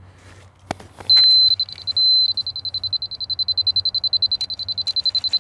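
Grade laser receiver beeping while grade is checked: a high tone, held steady twice for a moment, then pulsing fast at about eight beeps a second.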